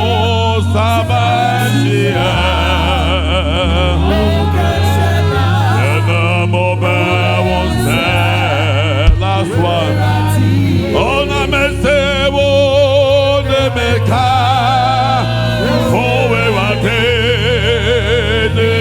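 Gospel worship singing: voices singing with vibrato over a band with a steady bass line. One sharp thump about halfway through stands out as the loudest moment.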